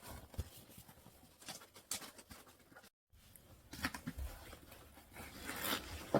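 Scattered clicks and rustling of objects being handled, broken by a brief dropout about three seconds in.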